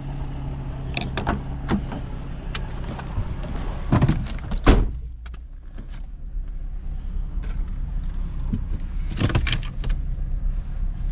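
A car engine idling with a steady low hum, broken by two loud thumps about four and five seconds in, after which it is quieter, with scattered clicks and knocks later on.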